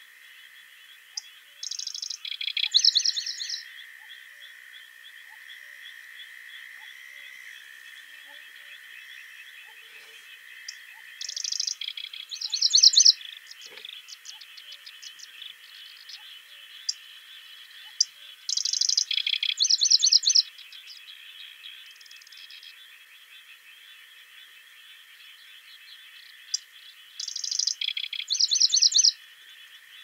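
A songbird sings the same short song four times, about every eight seconds; each song is a quick trill followed by a run of falling notes. A steady high chorus runs underneath.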